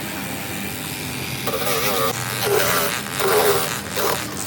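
A steady electric hum runs throughout. About a second and a half in, a person's voice joins it with wavering, drawn-out sounds.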